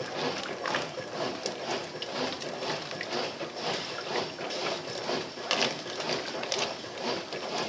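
Brastemp BWL07A top-loading washing machine agitating a low load of dish towels in heavily sudsy water: the agitator churning back and forth with water sloshing and splashing in uneven surges.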